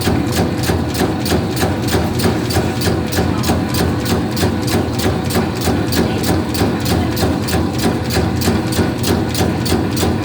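Meatball-forming machine running: a steady motor hum with a sharp mechanical knock repeating evenly, about four times a second.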